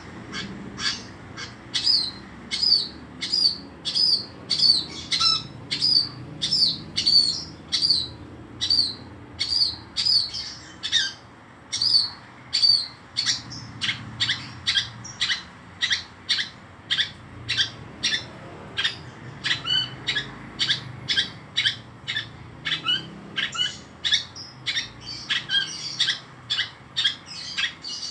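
Long-tailed shrike (pentet) calling in full voice: a steady, rhythmic series of short, sharp, high notes, roughly two a second, kept up without a break.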